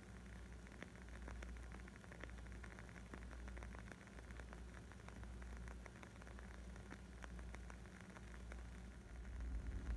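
Wood fire crackling: a steady scatter of small pops and snaps over a low rumble that grows louder near the end.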